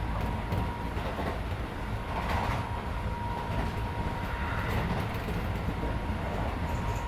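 Interior running sound of a Keisei 3400 series electric train at speed: a steady deep rumble with scattered clicks from the wheels and track, and a thin steady whine underneath.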